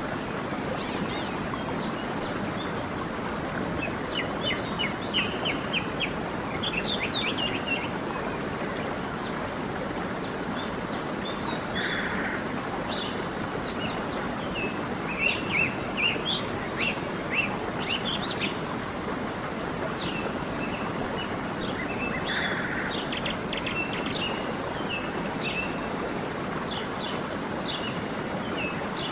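A stream flowing steadily, with small songbirds chirping and trilling above it in short bursts, at intervals throughout.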